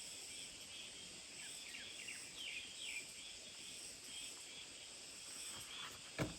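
Summer forest ambience: a steady high insect chorus, with a few short falling chirps about two seconds in and a single sharp knock near the end.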